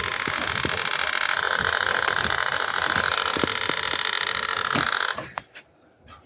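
Rinnai gas heater starting up after being switched on: a loud, steady mechanical rushing noise that cuts off suddenly about five seconds in, followed by a few faint knocks. The shutdown ends in a fault, as the heater then shows an error code.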